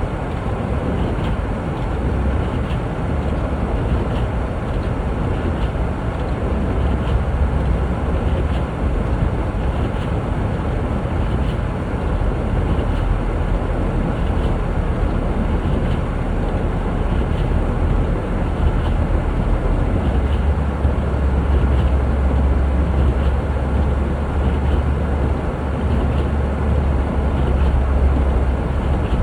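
Vehicle driving on a snow-covered highway: a steady low rumble of engine and road noise with a rushing wind-like hiss, and faint light ticks about once a second.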